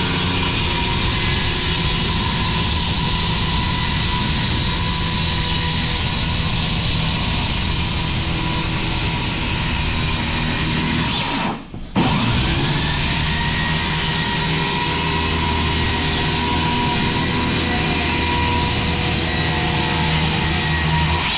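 Milwaukee corded 7-1/4 inch circular saw with a 24-tooth carbide blade cutting lengthwise through 3/4-inch tongue-and-groove oak floorboards. About halfway the trigger is let go and the saw briefly winds down, then spins back up and carries on cutting; it stops right at the end.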